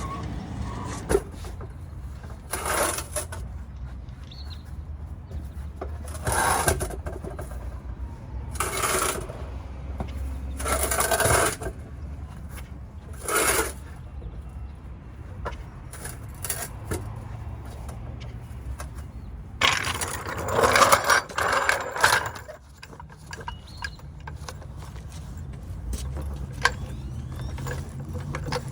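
A torque converter being pushed and turned onto a 4L60 transmission's input shaft, giving short bursts of metal scraping and clunking every few seconds, with a longer run of scraping about twenty seconds in. A steady low hum lies underneath.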